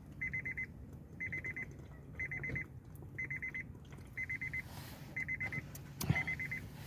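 Electronic alarm beeping: quick groups of four short high beeps, repeating about once a second, over a steady low hum.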